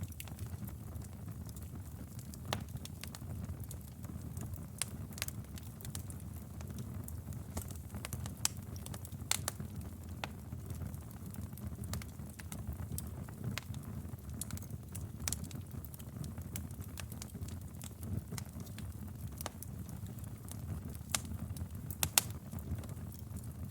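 Wood fire crackling in a fireplace: a steady low rumble of flames with irregular sharp pops and snaps, the loudest pop near the end.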